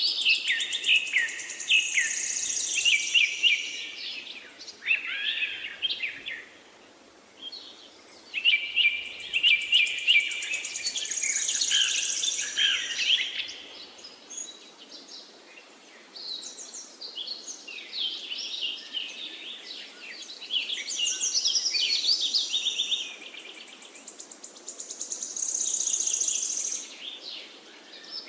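Several songbirds chirping and trilling in overlapping bouts of rapid, high notes, over a steady background hiss. The birds fall quiet for a second or two several times.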